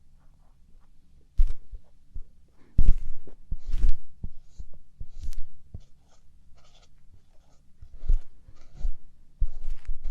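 Light-up ear pick scraping and tapping very close inside an ear, in irregular clusters of strokes and clicks with dull low thumps and short quiet gaps.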